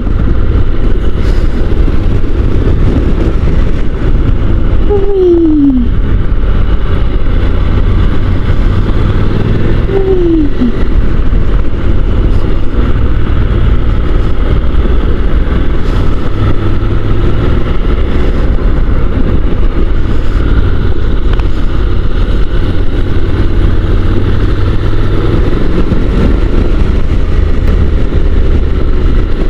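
Steady wind rush and engine drone on board a Honda NC750 DCT motorcycle riding along, heavy at the low end. About 5 and 10 seconds in, a rider gives a short falling 'whee!' call.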